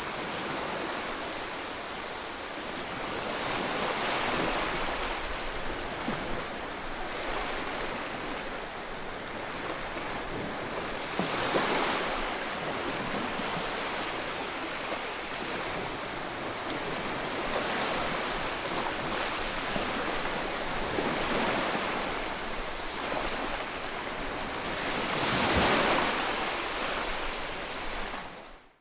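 Ocean waves breaking and washing ashore, a steady rush of surf that swells louder as waves crash, most strongly about 11 seconds in and again near the end. The sound cuts off suddenly at the very end.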